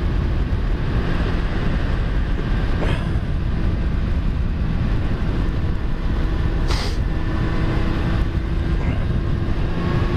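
Yamaha FZ1 motorcycle's inline-four engine running at a steady pitch under way.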